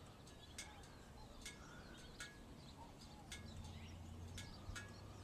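Faint outdoor quiet with scattered short, high bird chirps, roughly one or two a second.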